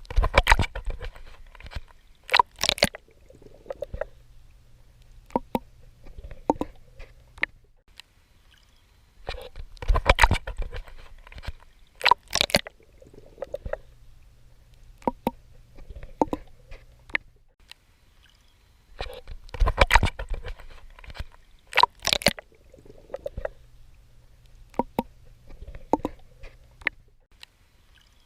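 Swimming strokes splashing and sloshing through water: loud clusters of splashes with softer sloshes between them, in a pattern that repeats about every ten seconds.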